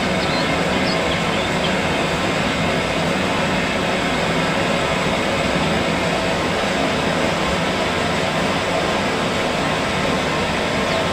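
Continuous loud, even rushing noise with no rhythm or pauses. A few faint, high, quick chirps of small birds sound in about the first second and a half.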